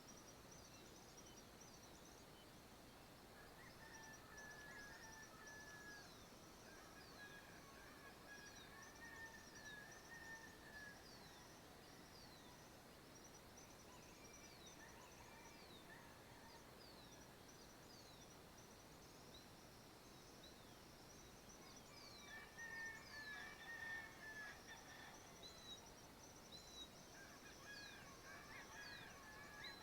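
Faint birds calling at dawn: many short, high calls that sweep downward repeat all through, with bursts of lower chattering calls a few seconds in and again past twenty seconds.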